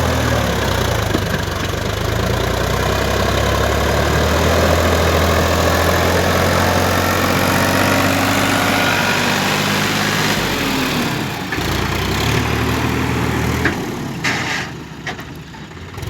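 Heavy diesel engine of earthmoving and farm machinery running steadily at working speed. Its note changes and drops in level about two thirds of the way through, with a few sharp clicks near the end.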